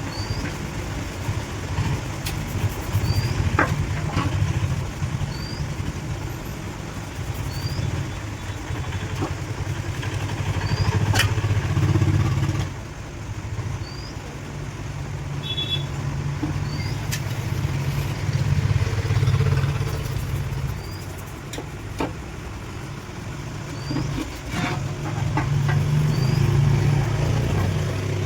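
A motor vehicle's engine running, its low rumble swelling and easing several times, with a few sharp clicks and a short high chirp repeating every second or two.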